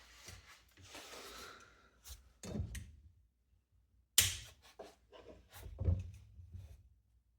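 Box fan parts being handled during disassembly: scattered sharp clicks and knocks with some rubbing. The loudest knock comes about four seconds in, and another about six seconds in.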